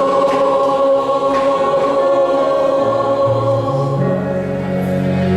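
Choir holding a long sustained chord over accompaniment at the close of a sung phrase; the low notes step up twice, about three and four seconds in.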